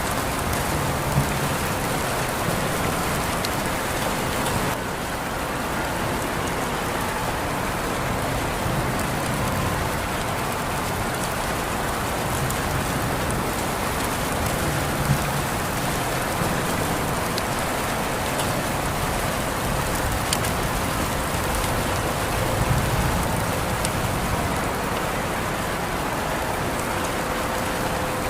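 Steady rain falling and pattering on surfaces: an even hiss with scattered sharper drop ticks.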